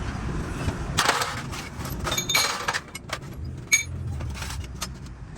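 Metal tools clinking and knocking, with a series of sharp strikes spread irregularly, several of them ringing briefly like metal on metal.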